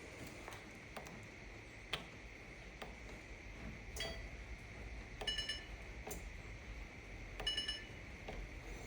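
Whirlpool Duet electric dryer's control panel: faint button clicks and two short electronic beeps about two seconds apart, with no motor run-up. The dryer will not start because its drive belt is broken or off the pulley.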